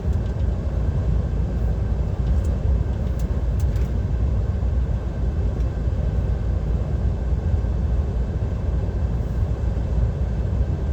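Steady low rumble inside the cab of a DAF XF 530 truck cruising on the motorway: its PACCAR MX-13 straight-six diesel droning under road and tyre noise. A few faint clicks come about two to four seconds in.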